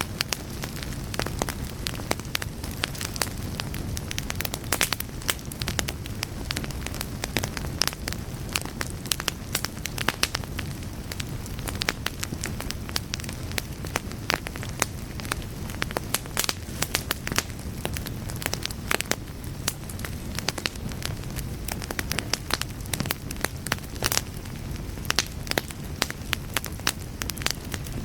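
Wood fire burning in a fireplace: a steady low rumble of flames with many irregular, sharp crackles and pops.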